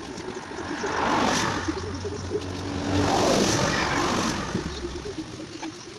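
Road traffic: two motor vehicles pass by one after the other, each swelling up and fading away.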